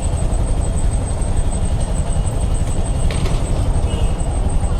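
Steady low rumble of motor traffic and engines heard from a motorcycle in a city traffic jam. There is a short higher-pitched sound about three seconds in.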